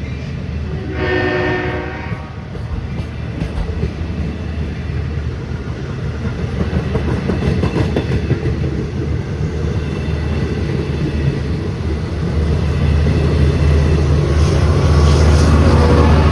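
Long Island Rail Road train with DM30AC diesel locomotives and coaches rolling past, with diesel engine rumble and wheels clattering on the rails. A short horn sounds about a second in, and the noise grows louder near the end as the rear locomotive comes by.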